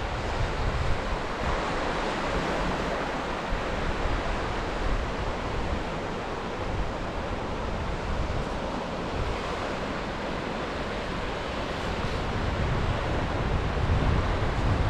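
Sea waves washing onto the shore in a steady wash, with wind buffeting the microphone in low gusts near the start and again near the end.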